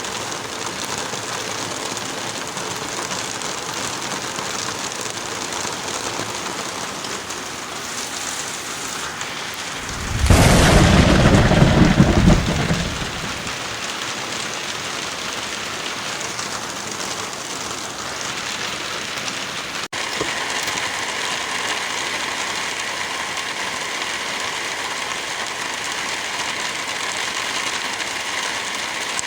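Heavy rain falling steadily, with a thunderclap about ten seconds in that rumbles loudly for a few seconds and fades. Near the end of the second third the rain sound briefly drops out and resumes.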